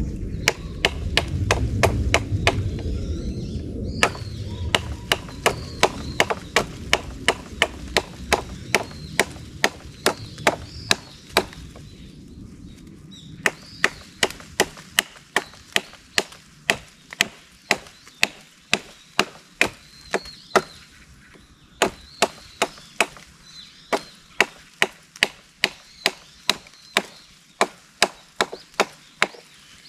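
Small Japanese nata hatchet chopping into wood in steady repeated strokes, about two a second, with a few short pauses between runs.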